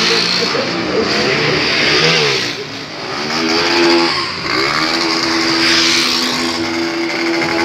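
Motorcycle engines revving up and down in quick swells, then one held at a steady high rev for the last few seconds, as a rider holds a wheelie.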